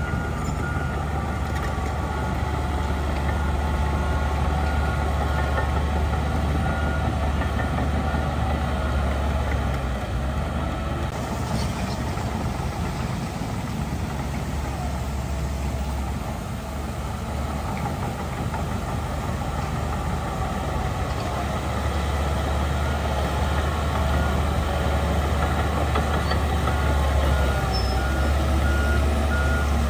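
Heavy diesel engine of earthmoving machinery running steadily, its low rumble rising and easing with the load. A reversing alarm beeps evenly in the first few seconds and again near the end.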